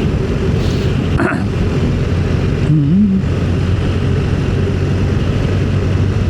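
Motorcycle engine running at a steady cruising speed, a constant low drone under a rush of riding noise.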